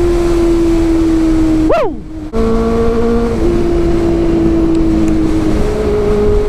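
Honda CB400's inline-four engine with an aftermarket Two Brothers exhaust, running at high revs under way. The note holds steady, then sharply rises and falls about two seconds in with a brief dip in loudness, and settles again at a few steady pitches that step up and down.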